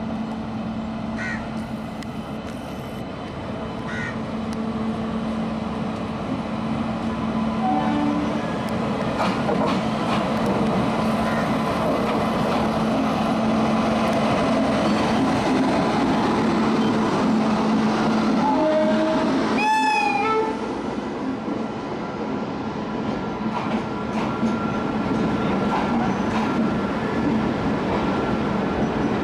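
WAP-7 electric locomotive and its AC chair car coaches rolling slowly past on the platform line, with a steady electric hum and rumbling wheels. The sound grows louder as the locomotive draws level, then the coaches roll by.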